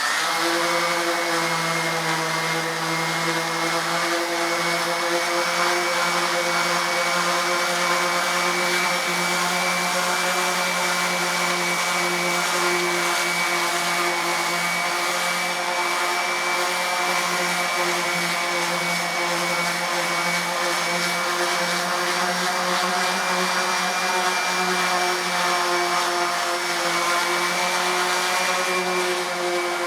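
Electric random orbital sander with 220-grit paper running steadily while sanding down fairing compound on a wooden hull plank repair: an even motor whine.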